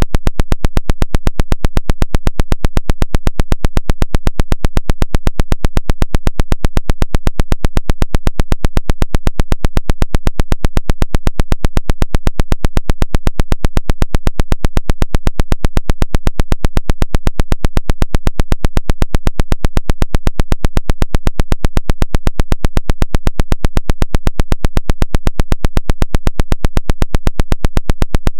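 A 'woodpecker' signal: a harsh, loud, rapid train of evenly spaced clicks, steady and unchanging throughout.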